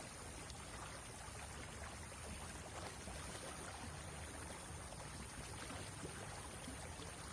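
River water flowing, a steady even rush with no distinct splashes.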